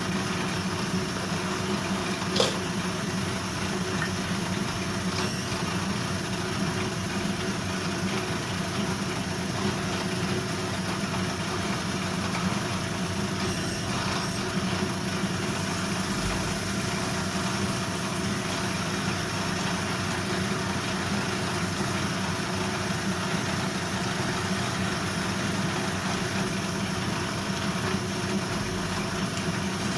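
A workshop machine's motor running steadily, a low hum with hiss, starting abruptly at the outset; a single sharp click about two and a half seconds in.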